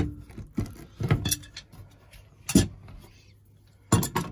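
A few separate clicks and knocks from plastic waste-pipe fittings being handled and tightened by hand, the sharpest about halfway through and a quick cluster near the end.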